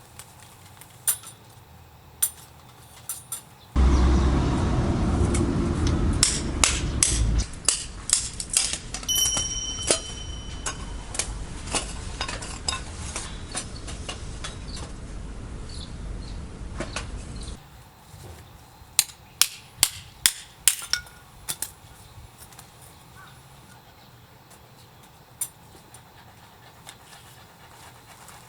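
Firewood being split: sharp wooden knocks coming in irregular clusters. A stretch of low rumble starts about four seconds in and lasts about three seconds.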